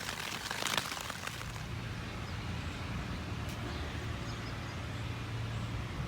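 Brief rustling for about the first second and a half, then a steady low hum.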